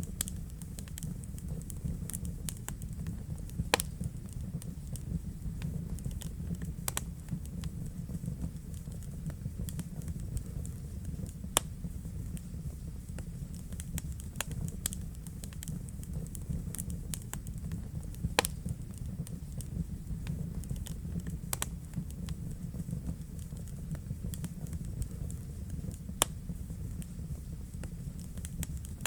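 Wood fire crackling in a fireplace: a steady low rumble of burning with constant small crackles and about half a dozen louder pops.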